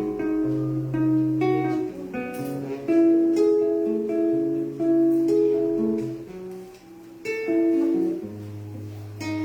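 Acoustic guitar playing an instrumental introduction of plucked and strummed chords before the singing comes in, with a brief quieter stretch a little past the middle.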